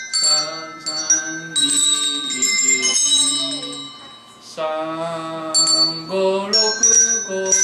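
Hand-rung bells sounding one note at a time to pick out a simple melody, with a voice chanting the note numbers along with them.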